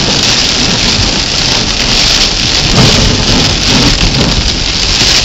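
Heavy rain in a thunderstorm: a loud, steady hiss of downpour with a low rumble underneath.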